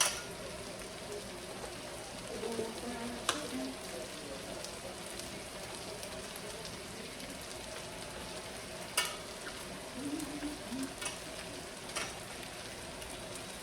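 Flour-coated chicken frying in hot oil: a steady sizzle, with a few sharp clicks or knocks of utensils now and then.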